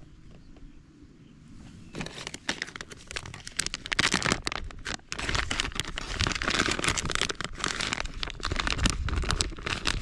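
Dense crinkling and crackling rustle, full of small clicks, starting about two seconds in after a quieter opening.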